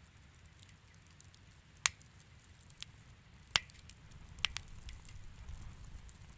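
Wood fire in a fireplace crackling, with a handful of sharp pops, the loudest about two seconds and three and a half seconds in, over a low steady rumble.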